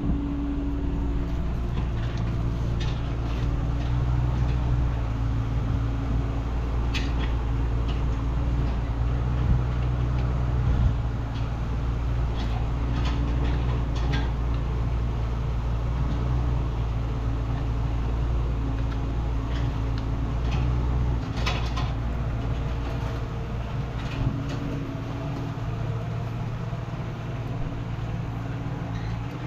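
Engine of a small earthmoving machine running steadily under load, its note shifting now and then as it works, with occasional clanks and scrapes.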